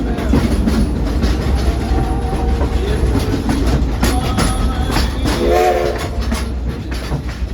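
Steam train running along the track, a steady rumble and clatter of wheels on rail. A short pitched blast, like a whistle, comes about five and a half seconds in.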